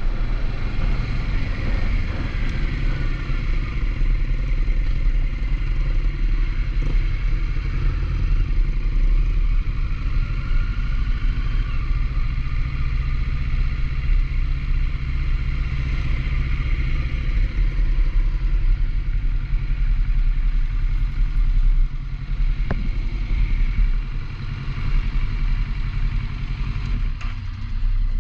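Kawasaki Z650 parallel-twin engine running steadily while riding, with a heavy low rumble of wind and road noise.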